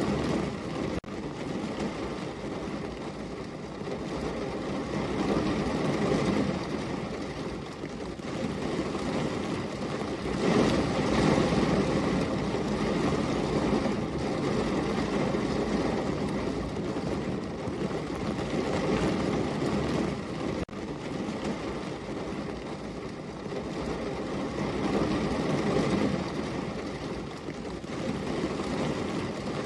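Steady rain falling, a dense even hiss that swells and eases in loudness, with two brief dips.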